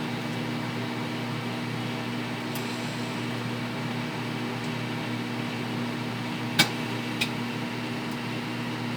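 Microwave oven running with a steady hum while heating eggs inside, with a couple of brief sharp clicks about two-thirds of the way through.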